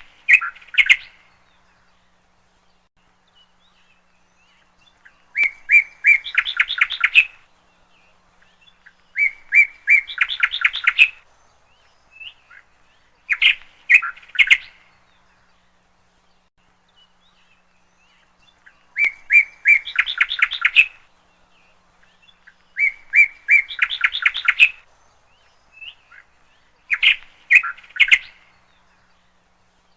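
A bird singing short song phrases every few seconds, each a few clear notes that run into a fast trill.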